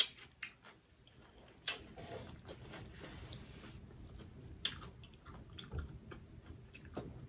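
Close-miked chewing and wet mouth sounds of someone eating, with scattered small clicks; the loudest click comes right at the start.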